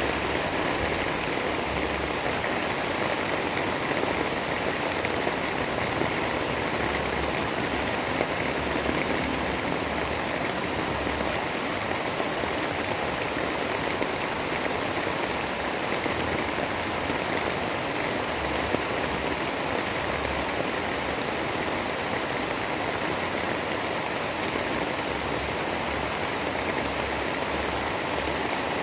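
Steady storm ambience of rain-like noise: an even, unbroken hiss with no distinct drops or claps, and a faint low rumble that comes and goes.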